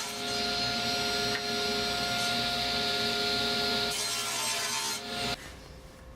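Electric power saw cutting wood: a steady motor whine under a dense cutting noise. It stops abruptly about five seconds in.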